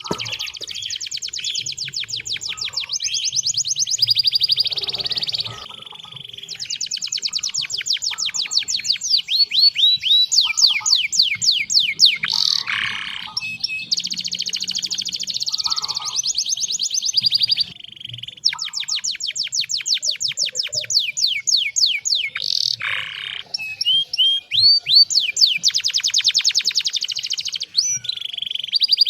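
Domestic canary singing: long runs of rapid trills and fast repeated sweeping notes, phrase after phrase with brief pauses between them.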